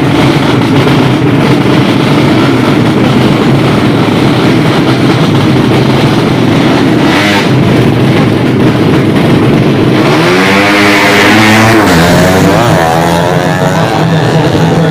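Drag racing motorcycle engines running loud and continuous. About ten seconds in, one engine revs hard, its pitch climbing and then dropping, and then climbs again.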